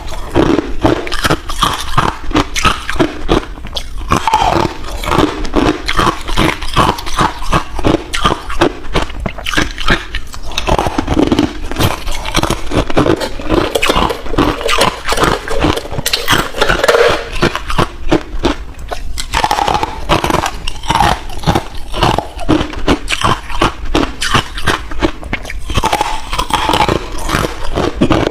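Ice being bitten and chewed close to the microphone: a continuous run of sharp cracks and crunches as the pieces break between the teeth.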